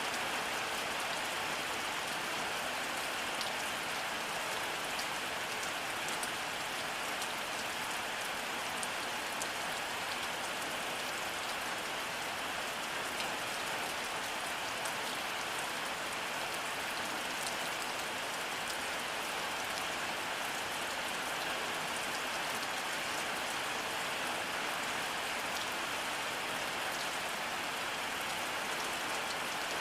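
Steady rainfall, an even hiss of rain on a surface with fine scattered drop ticks, unchanging in level throughout.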